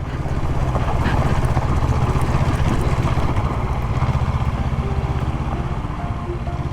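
Motorcycle engine running at steady revs while riding, over wind and road noise. Faint music fades in near the end.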